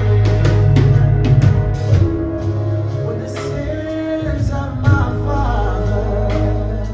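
Live band music with a heavy, sustained bass line and regular drum hits, with some singing over it.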